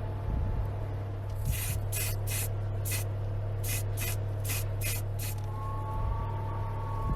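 Paint spraying in a series of short hissing bursts over a steady low hum.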